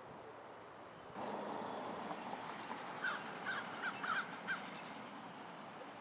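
A bird calling: a run of about six short, harsh calls between two and five seconds in, over a steady outdoor background hiss that gets louder about a second in.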